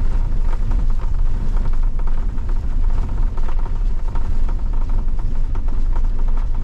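Car driving on a snowy road: a loud, steady low rumble of engine and tyres, with many small irregular ticks over it.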